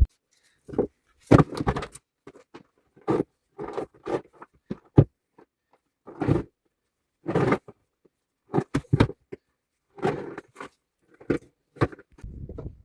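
A series of short, irregular knocks and rustles, about fifteen of them, separated by silent gaps.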